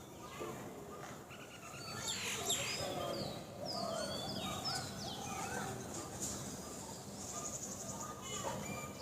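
Several birds calling and singing together: many short whistled chirps and sliding notes, busiest in the middle, with a quick high trill a little past halfway, over steady outdoor background noise.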